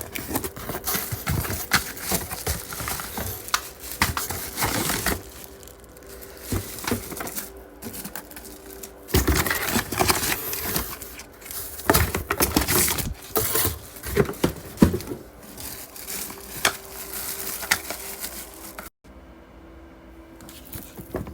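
Unpacking: crinkling and rustling of packaging, with irregular knocks and taps as an electric tea kettle and its parts are lifted out and handled.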